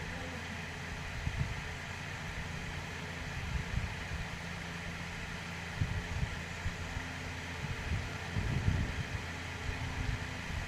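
A steady mechanical hum with scattered soft low thumps, a few stronger ones about two-thirds of the way through.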